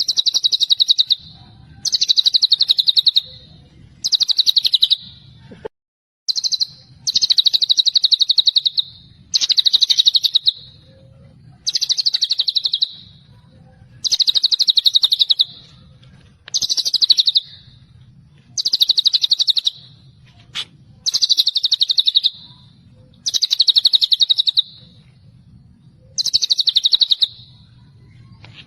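White-rumped shama (murai batu) singing its rapid, trilled 'celilin' burst over and over, a high buzzing phrase of a little over a second repeated about every two seconds.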